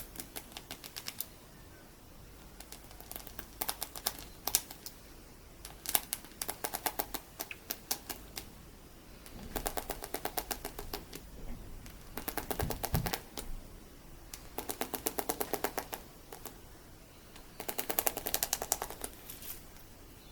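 Loose colourful sticky beads, out of their packaging, worked with metal finger caps. The result is rapid clicking and crackling in about seven bursts of one to two seconds each, with short pauses between them.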